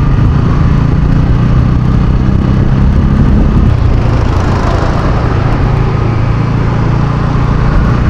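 Bajaj Pulsar N160's single-cylinder engine running at a steady cruise, with wind and road rush over it.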